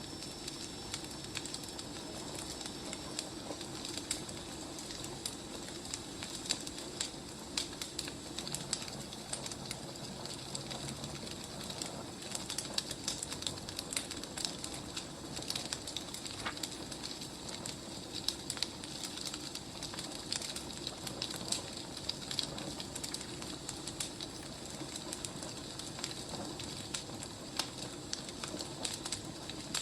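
Wood fire crackling: irregular small pops and snaps over a steady low hiss.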